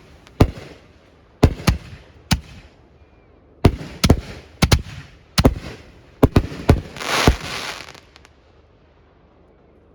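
Fireworks display: aerial shells bursting in an irregular string of sharp bangs, some in quick pairs, with a spell of hiss about seven seconds in. The bangs die away about two seconds before the end.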